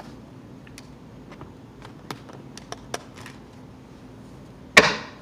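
Tarot cards being handled and shuffled: scattered light taps and clicks, then one loud slap near the end.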